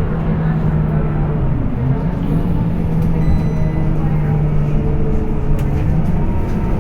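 Scania K230UB bus engine with ZF automatic gearbox running steadily under way, heard from on board; its pitch dips briefly about two seconds in, then settles again.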